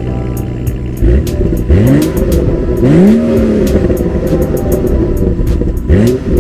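BMW 640i Gran Coupe (F06) turbocharged straight-six idling through its exhaust, then revved in short throttle blips. The longest blip, about three seconds in, is held a moment before the revs fall back, and two quick blips come near the end.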